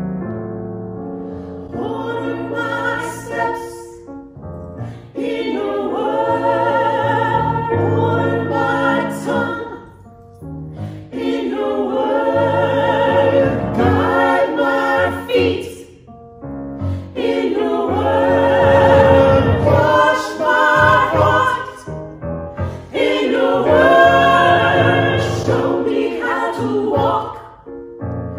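A choir singing a hymn in phrases of a few seconds each, with short pauses for breath between them.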